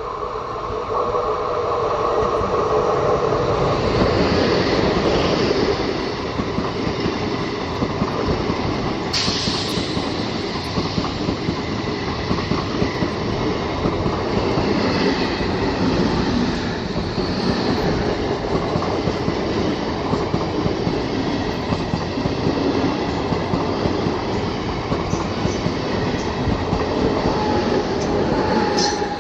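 A long passenger train passing close by on the adjacent track: a steady, loud rumble of wheels with quick clatter over the rail joints, swelling up about a second in and holding.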